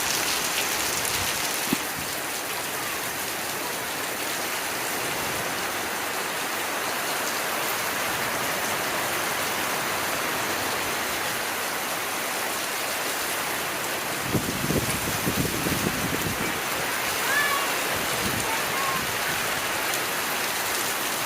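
Heavy rain pouring down steadily as a dense, even hiss. A few low rumbles come through about two-thirds of the way in.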